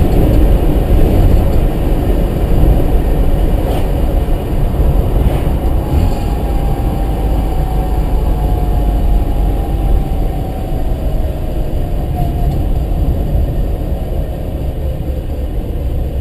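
Mazda RX-7's rotary engine and drivetrain running with a steady low drone. Over the second half a faint whine slowly falls in pitch.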